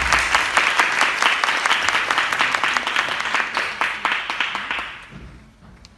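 Theatre audience applauding, a dense patter of many hands clapping that dies away about four and a half seconds in.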